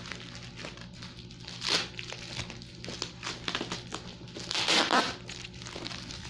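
Tight plastic packaging crinkling and crackling as it is pulled and worked off a box by hand, with two louder crinkles about two seconds in and again near five seconds.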